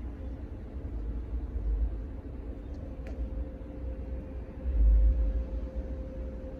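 City street ambience in a snowstorm: a low, uneven rumble that swells loudest about five seconds in, with a faint steady hum held through most of it and a single click about three seconds in.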